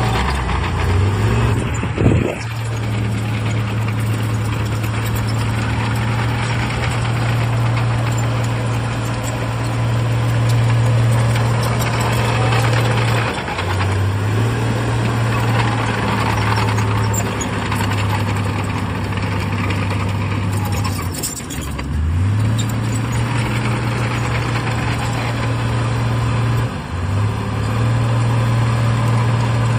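Heavy diesel engine of earthmoving machinery running steadily under load. Its pitch dips and then recovers three times as the load or throttle changes. A sharp knock sounds about two seconds in.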